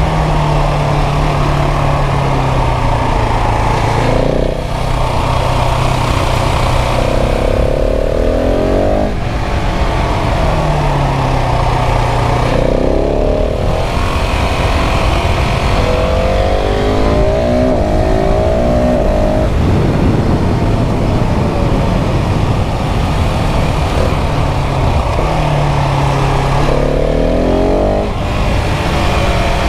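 KTM 690 SMC R's single-cylinder engine riding under load, its pitch climbing and falling repeatedly as it revs up and shifts gears, over a steady rush of wind noise.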